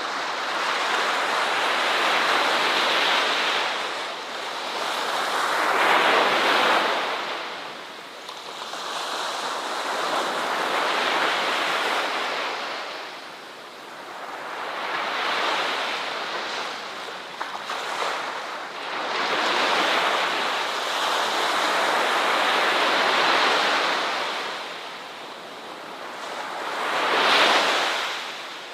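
Ocean waves breaking and washing up a beach, a surging hiss that swells and ebbs every four to five seconds, with a sharper crash near the end.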